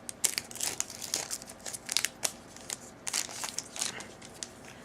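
A foil trading-card pack wrapper being pulled and torn open with crinkling and crackling, a stubborn wrapper that resists coming apart.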